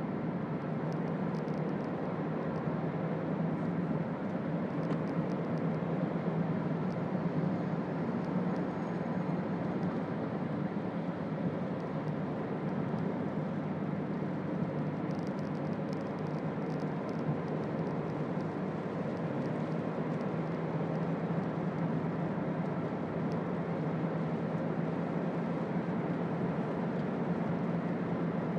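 Steady in-cabin drone of a Toyota Auris with its 1.4-litre four-cylinder D-4D turbodiesel under way, engine hum mixed with road and tyre noise at an even level. A brief run of faint ticks comes about halfway through.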